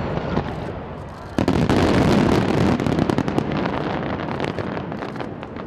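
A single massive fireworks volley: hundreds of shells fired in the same second. Launch bangs are already sounding, and about a second and a half in a far louder, dense mass of bursts and bangs breaks out. It then fades slowly with scattered crackles and pops.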